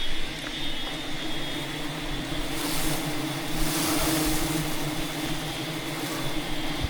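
Steady drone of a swarm of wild honey bees around their hive, with two stretches of rustling hiss midway.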